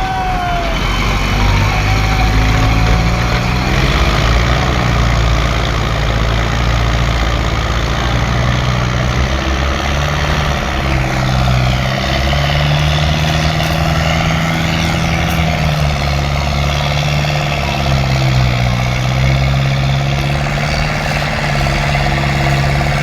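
Diesel tractor engine labouring under a heavy load of sugarcane, its note rising and falling as the revs change.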